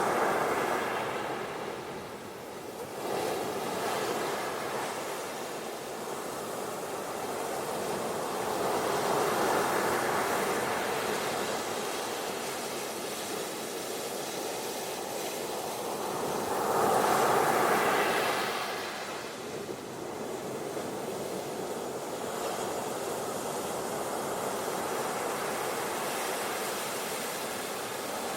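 Ocean waves breaking and washing on a beach, the surf swelling and easing in slow surges, the strongest about two-thirds of the way through.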